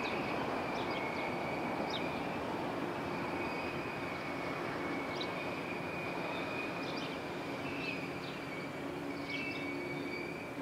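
Electric multiple-unit train rolling slowly along a curve, with a steady high-pitched wheel squeal over the rumble and short squeaks now and then.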